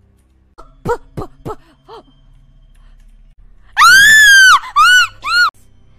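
A woman's voice screaming: a few short yelps, then a long, very loud high-pitched scream about four seconds in, followed by two shorter screams.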